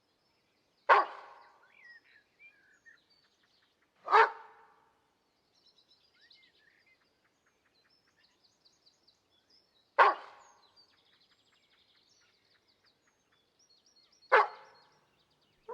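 Four single dog barks, a few seconds apart, each trailing off in an echo. Faint birdsong chirps can be heard between them.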